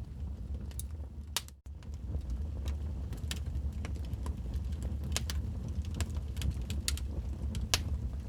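Wood fire crackling in a fireplace: irregular sharp pops and snaps over a steady low rumble. All sound cuts out for a split second about one and a half seconds in.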